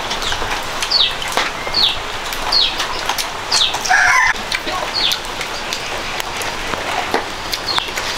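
A bird's short high chirp, falling in pitch, repeated about every second, with a louder, lower call about halfway through and scattered light clicks.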